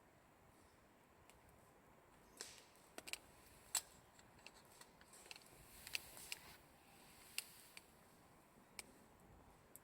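Wood fire crackling: scattered sharp pops and snaps at irregular intervals over a faint background, with a short hiss about six seconds in.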